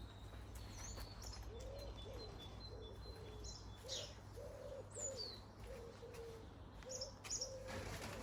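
A pigeon cooing: a run of low, soft coos repeated about twice a second, with small garden birds chirping briefly and high above it.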